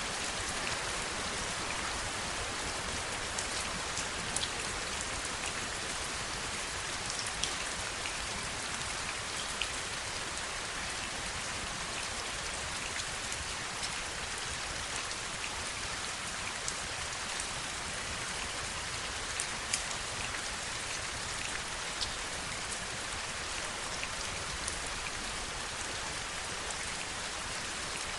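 Heavy rain falling steadily, a dense even hiss with sharp individual drop impacts standing out every second or two.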